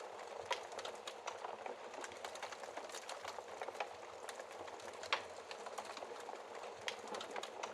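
Wood fire crackling in a fireplace: a steady hiss from the burning logs with frequent small pops, and a sharper pop about five seconds in.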